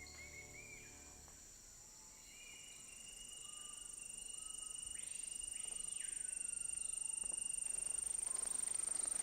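Rainforest insect chorus. A high, rapidly pulsing insect trill comes in about two and a half seconds in and grows steadily louder over other steady insect tones, with scattered short chirping calls.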